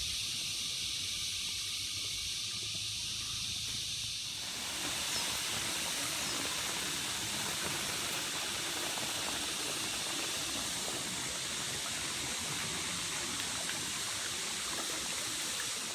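Steady high-pitched chorus of crickets. About four seconds in, the fuller rush of flowing water joins it.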